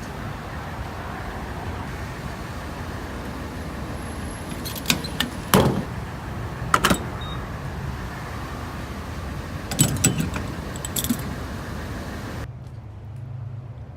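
Steady low rumble of a vehicle on the move, heard from inside, with a handful of sharp clicks and jangling rattles in the middle. The rumble thins out near the end.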